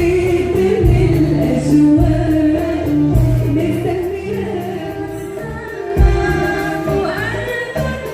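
A choir singing a song in unison over instrumental accompaniment with a repeating bass line.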